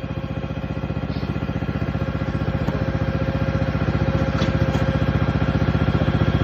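Small pull-start engine running steadily with an even pulsing beat, growing gradually louder as it works under load.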